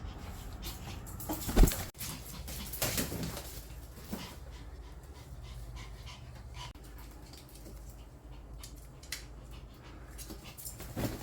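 A dog panting in short, repeated breaths, with a loud sharp knock about one and a half seconds in.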